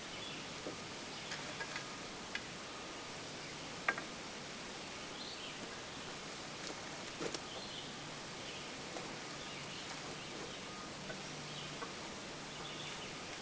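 Quiet outdoor ambience with faint insect and bird chirps, broken by a scattering of light wooden clicks and knocks as thin wooden stickers are laid on a stack of freshly sawn boards. The sharpest knock comes about four seconds in, and a pair follows a few seconds later.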